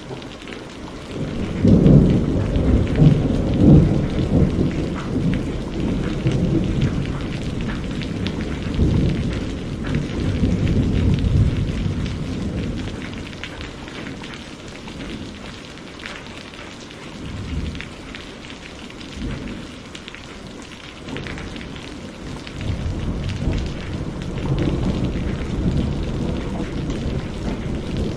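Steady rain with a long roll of thunder that breaks about two seconds in, rumbles for some ten seconds and fades away. A second, softer rumble of thunder builds near the end.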